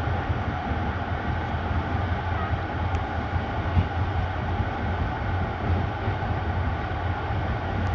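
Passenger train running along the line, a steady rumble with an even noise over it and no changes.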